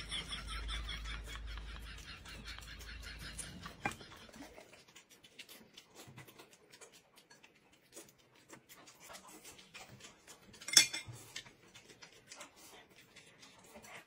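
Close-up eating sounds of a woman biting and chewing roast chicken held in her hands: a run of small wet clicks and smacks, with one louder smack about eleven seconds in. A laugh trails off at the very start.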